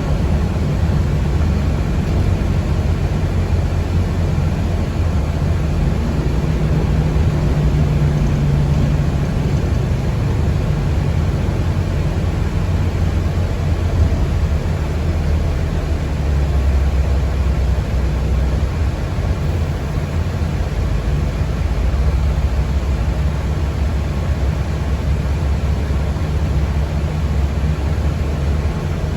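Steady low rumble of road and motor noise inside a moving city public-transport vehicle's passenger cabin.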